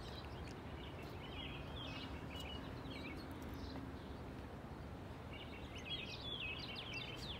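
Small birds chirping in quick twittering phrases, once about a second in and again near the end, over a steady low outdoor background noise.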